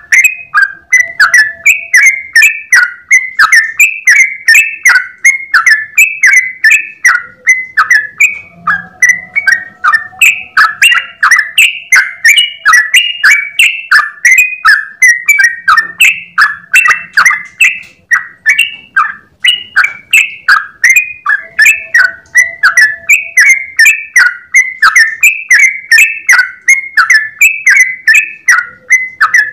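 Yellow-vented bulbul singing a long, unbroken run of quick chirping notes at about two to three a second, without pausing.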